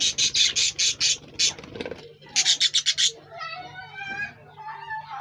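Birds calling: a series of harsh, scratchy calls about four a second, a quicker rattling burst about halfway through, then softer calls that slide in pitch.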